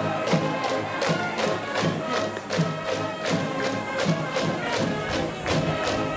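Brass band cheering section playing a fight tune over a steady, insistent drum beat, with crowd voices underneath.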